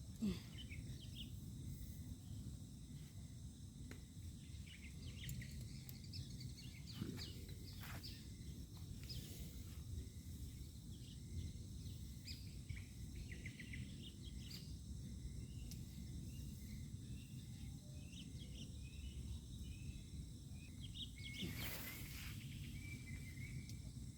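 Faint night-time outdoor ambience: a steady high insect hum with many short chirps over a low background rumble. A few soft clicks fall among them, one louder about 21 seconds in.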